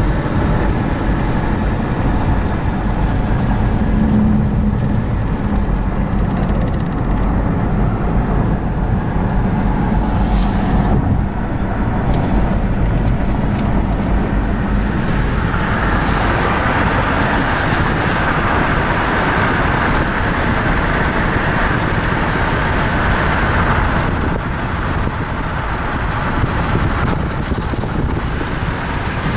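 A car's steady running rumble with road noise. A brighter hiss rises over it from about halfway through for some eight seconds, then fades.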